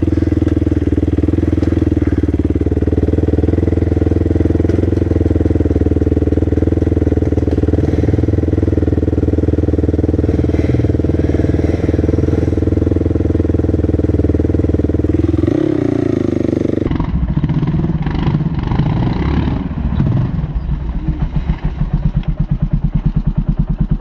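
Small off-road vehicle engine running at a steady, held speed. About two-thirds of the way through it cuts abruptly to a rougher, uneven engine sound, which turns into a fast, regular throbbing near the end.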